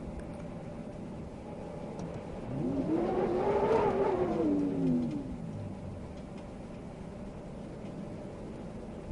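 A motor vehicle passing by, its engine note climbing in pitch and then falling away, loudest about four seconds in, over a steady hiss of wind.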